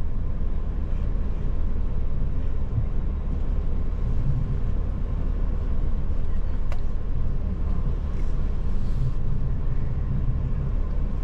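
Steady low rumble of a tour bus's engine running, heard from inside the cabin. A single sharp click comes about two-thirds of the way through.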